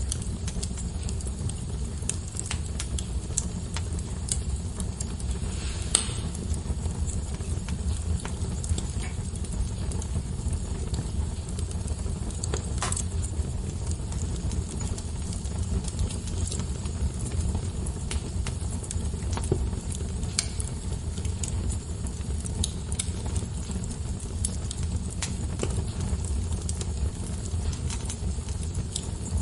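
Wood fire in a fireplace burning with a low steady rumble and scattered crackles, with a few louder pops, one about six seconds in and another about thirteen seconds in.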